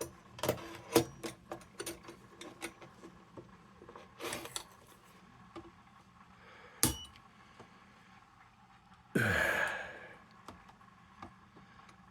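Small metal parts of a kerosene lantern being bent and fitted with pliers: scattered light clicks and taps, a short scrape about four seconds in and a sharp click near seven seconds. Just after nine seconds a person lets out a sigh that falls in pitch.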